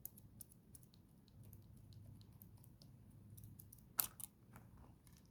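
Faint scattered clicks and small plastic taps from handling small pop-it toys and scissors, with a sharper cluster of clicks about four seconds in.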